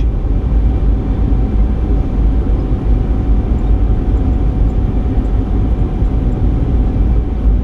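Car driving along a road, heard from inside the cabin: a steady rumble of engine, tyres and wind with no sudden events.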